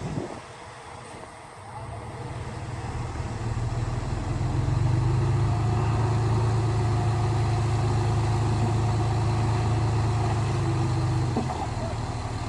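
Heavy diesel engine of earthmoving machinery. It runs low at first, rises over a few seconds to a loud, steady working pitch, holds there, and eases off shortly before the end.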